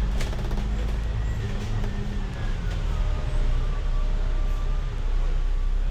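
A bus heard from inside the cabin: steady low engine and road rumble, with a thin drivetrain whine that falls in pitch twice.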